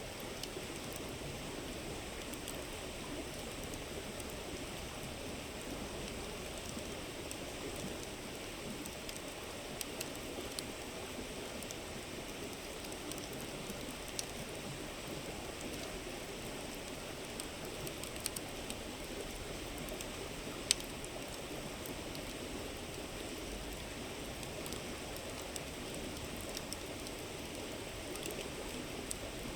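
A river's steady murmur with a campfire crackling now and then: scattered sharp pops and snaps over the rushing water, the loudest pop about two-thirds of the way through.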